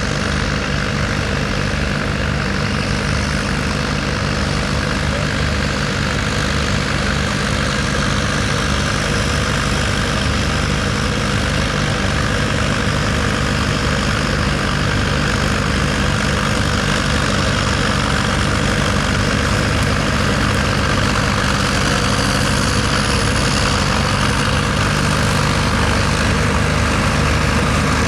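A tractor's diesel engine running steadily, its low note unchanging and growing slightly louder toward the end.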